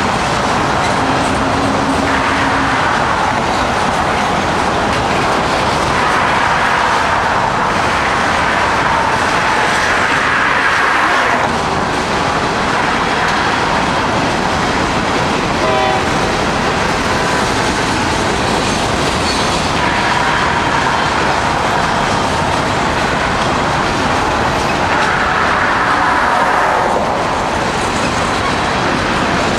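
A long CSX freight train rolling past, its cars' wheels clattering steadily over the rails, with a thin squeal from the wheels now and then.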